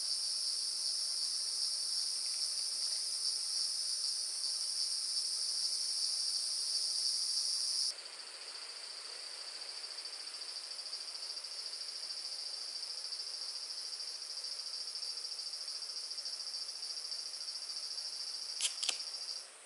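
A steady, shrill insect chorus in the forest. It drops suddenly in loudness about eight seconds in, then carries on until a couple of sharp clicks near the end, just before it cuts off.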